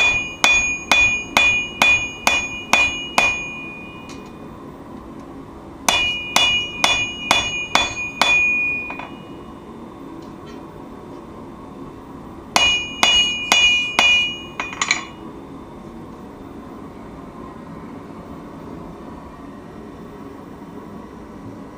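Hand hammer striking steel on an anvil in three runs of quick blows, about two a second, each blow leaving a high metallic ring. After the third run only a steady low background noise remains.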